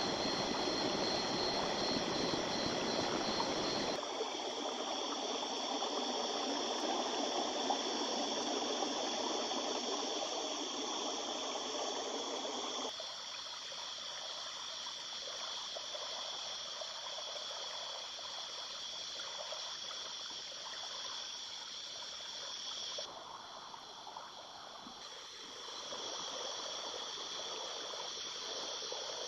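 Small river flowing and trickling over stones, steady throughout. Its character shifts abruptly several times, losing its lower rush about four seconds in and again about thirteen seconds in, as if heard from different spots along the bank.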